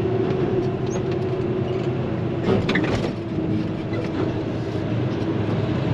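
Semi-truck day cab driving, heard from inside the cab: a steady engine drone and road noise, with a few brief knocks or rattles about halfway through.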